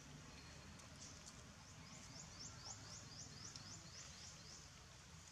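Faint outdoor ambience with a bird calling a quick run of high, falling notes, about five a second, starting about two seconds in and lasting nearly three seconds.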